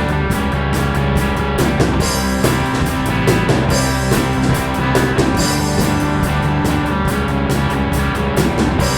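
Rock band playing an instrumental passage: electric guitars and bass over a steady drum kit beat, with no vocals.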